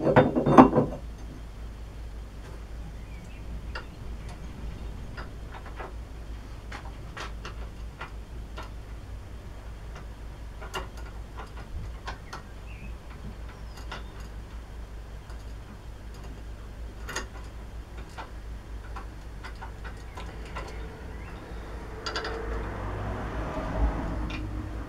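Scattered light clicks and taps of lathe parts being handled and fitted during reassembly. There is a louder clatter right at the start and a scraping, rustling stretch near the end.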